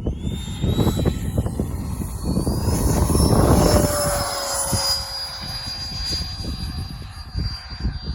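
Freewing F-22 Raptor RC jet's twin electric ducted fans whining in flight: a high whine that rises at the start and then holds, with a lower tone easing slightly in pitch partway through. Wind buffets the microphone throughout.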